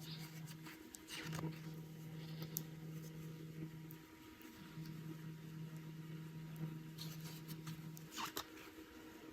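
Faint rustling and small clicks of a crochet hook pulling yarn through stitches, over a low hum that cuts out and comes back a few times.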